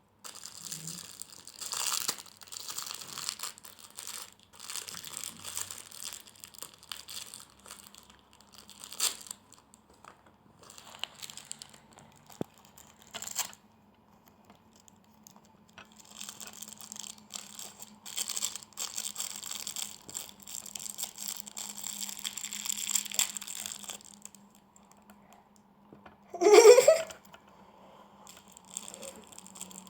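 Plastic wrapping crinkling and tearing as a toy package is worked open, in irregular scratchy bursts. Near the end comes one brief, loud rising squeal.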